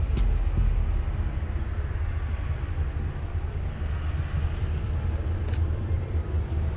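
Low, steady rumble of a vehicle engine running. A fast ticking beat from music fades out about a second in.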